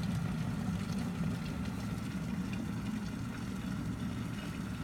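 Aicok 1.7-liter stainless-steel electric kettle at a rolling boil: a steady low rumble of boiling water with a few faint scattered ticks.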